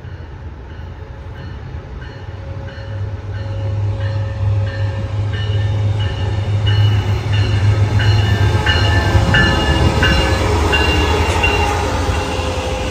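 Amtrak Pacific Surfliner passenger train pulling into the station, its engine rumble growing louder. Over the rumble comes a steady ringing of about two strokes a second, typical of a locomotive bell sounded on arrival.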